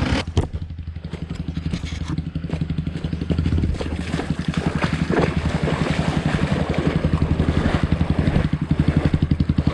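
Single-cylinder dirt bike engine idling, a fast even putter that grows gradually louder.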